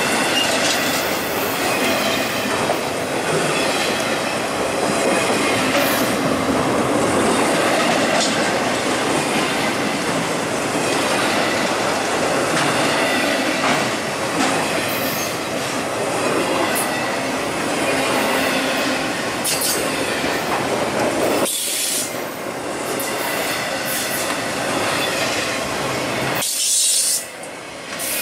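Intermodal freight cars carrying double-stacked containers and trailers rolling past close by: steel wheels rumbling and clacking over the rails, with a faint steady high wheel squeal. The sound drops off abruptly twice near the end.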